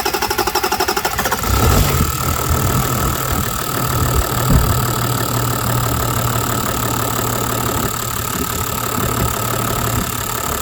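Toyota 1HD-FTE 4.2-litre straight-six turbodiesel cranking on the starter with a fast, even pulse, catching about a second and a half in and settling into a steady idle.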